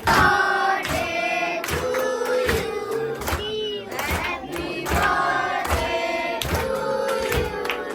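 A group of voices singing together in chorus, with long held notes over a regular beat.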